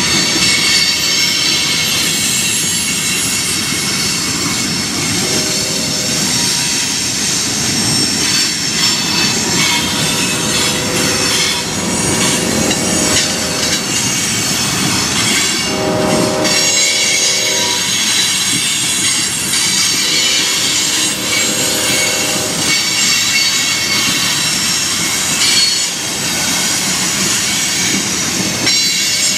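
Freight cars rolling past with their brakes applied all along the train: brake shoes and wheels squealing in several high-pitched tones over the steady rumble of the wheels on the rails. Lower-pitched squeals come and go every few seconds. It sounds like every brake in the train is on.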